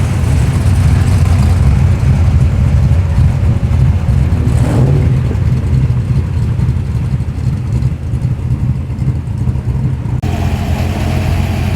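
Holden VP Commodore SS's 5.0-litre V8 rumbling as the car rolls slowly past, a steady deep burble.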